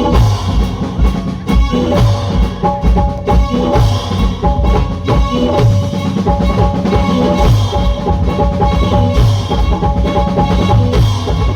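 Live devotional band music without vocals: a steady, regular drum beat with held melody notes over it.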